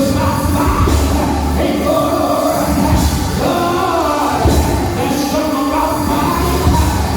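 Church worship music: voices singing over a band with a strong, pulsing bass line.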